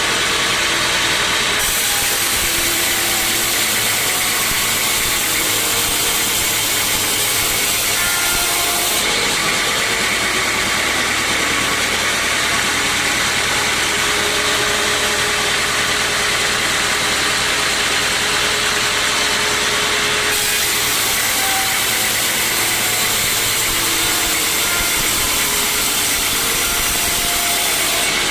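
Sawmill saw and its machinery running steadily and loudly, likely cutting through a teak log. A constant motor drone sits under a strong high hiss that changes character a few times, about 2, 9 and 20 seconds in.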